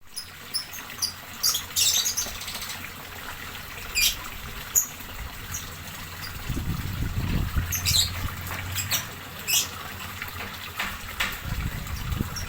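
Small birds chirping in short, sharp high calls scattered irregularly, over a steady faint hiss; a low rumble comes in about halfway through.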